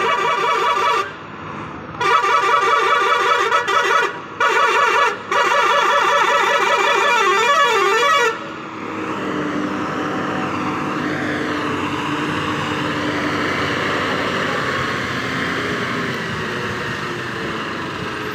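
A truck's musical horn sounding in four long blasts, its several tones warbling up and down, for about the first eight seconds; then the truck's engine running steadily.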